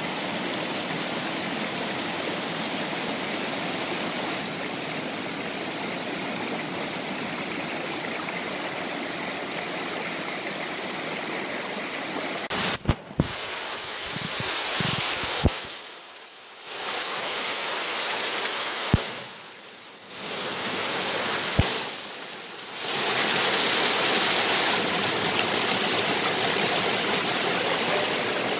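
Waterfall and stream water rushing steadily. Around the middle it is broken by a few sharp clicks and brief dips in level, after which it comes back louder and hissier.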